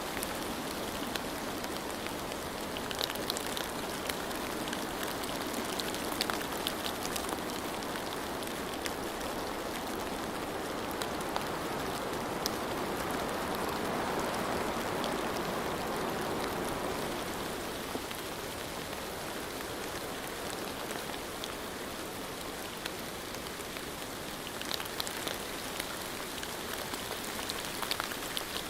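Steady rain falling, an even hiss with scattered sharper taps of individual drops. It swells a little about halfway through.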